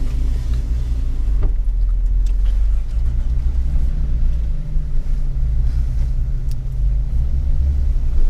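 Jeep Wrangler engine running at low revs, a low steady drone heard from inside the vehicle, with a few faint clicks.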